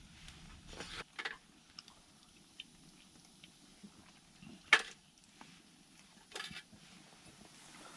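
Campfire crackling: burning wood giving scattered sharp snaps and pops, the loudest about halfway through.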